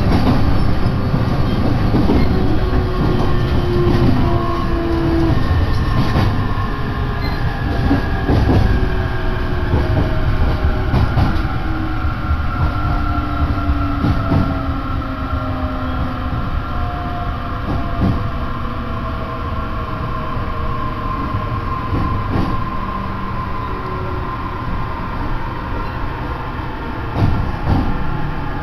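Running noise inside a Joban Line electric train as it slows: the traction motors' whine falls steadily in pitch under braking, over a low rumble, with wheels clicking over rail joints. The noise eases as the train draws into the station.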